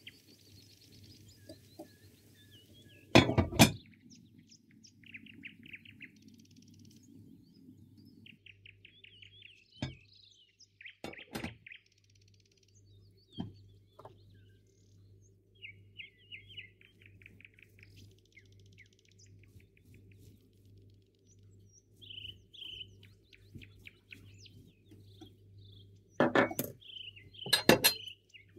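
Birds chirping and trilling in short repeated phrases, broken by a few loud sharp sounds, the loudest two coming near the end.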